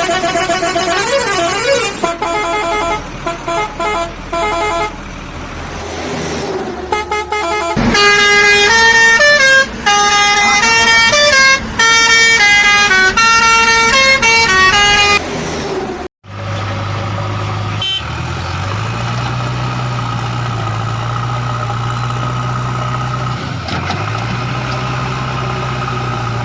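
Cartoon vehicle sound effects: horn-like honking tones that step through a short tune for the first half, then a steady, even engine hum after a brief break in the middle.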